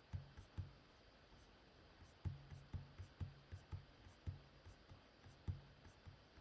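Faint, irregular clicks and taps from working a computer mouse and keyboard on a desk, about a dozen of them, some in quick runs.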